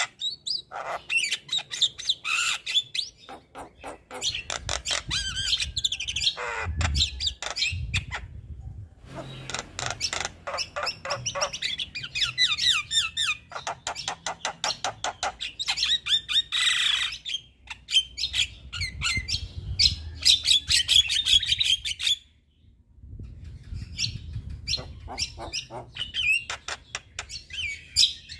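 Male Javan myna (jalak kebo) singing continuously: a long, varied run of rapid clicking, chattering and whistled notes, broken by a short pause about three-quarters of the way through.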